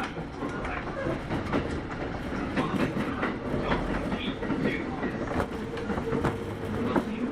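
A Kintetsu 8810 series electric train running, heard from inside the car: steady rumble with wheels clicking over rail joints. A faint steady tone comes in about halfway through.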